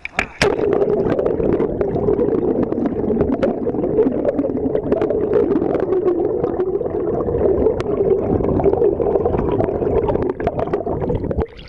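Underwater sound from a camera held below the water's surface: a dense, muffled rushing with many scattered sharp clicks. It starts abruptly about half a second in and cuts off suddenly near the end as the camera comes back out of the water.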